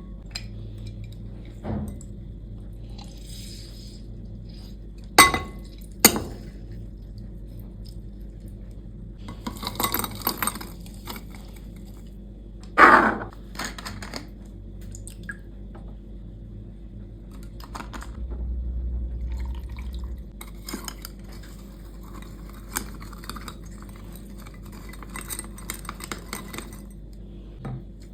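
Glassware and utensils clinking and knocking as a coffee drink is made: scattered sharp clinks, the loudest about halfway through. A brief low hum lasts about two seconds later on.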